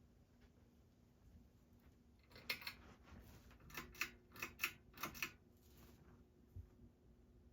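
A quick run of about eight sharp clicks over some three seconds, typical of a ceiling fan's pull-chain switch being worked, over a faint steady motor hum from a Universal CF-351 ceiling fan.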